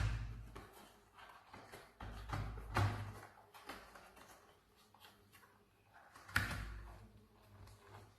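A few knocks and thuds from objects being handled: one cluster about two to three seconds in and a single knock about six seconds in.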